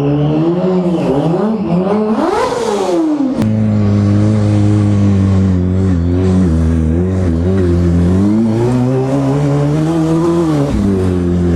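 Kawasaki ZX-6R sportbike's inline-four engine running through a full aftermarket exhaust while being ridden. About two seconds in, the revs climb steeply and fall back. A sharp click follows, and the engine then runs at a fairly steady speed with small rises and dips.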